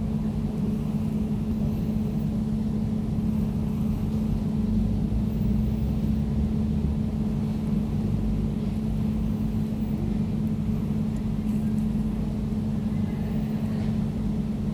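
Air conditioner running with a steady, even low hum and rumble.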